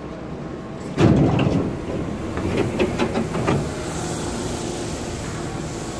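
Inside a Hankyu 7000 series train car at a station stop: a sudden loud burst of noise about a second in, fading quickly, followed by a rapid run of clicks and knocks, over the car's steady hum.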